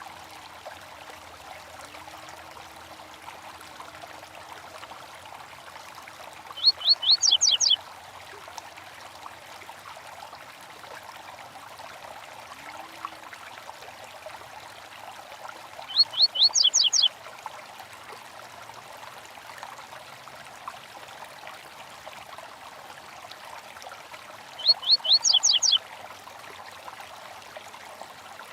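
A small stream trickling steadily, with a bird calling three times, about nine seconds apart. Each call is a quick run of about eight high, sharp down-slurred notes lasting about a second.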